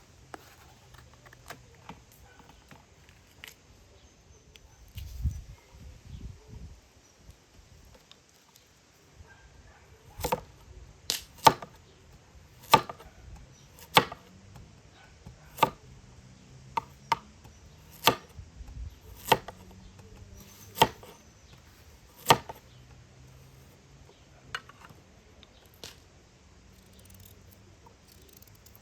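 A knife chopping on a cutting board in separate, sharp strikes about one a second, a dozen or so in a row from about a third of the way in, after a few softer knocks.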